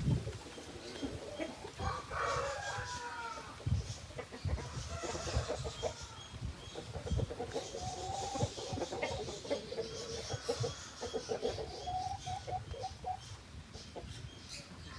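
Aseel chickens clucking, with a rooster crowing about two seconds in and a run of quick repeated clucks in the second half, over scattered low thumps.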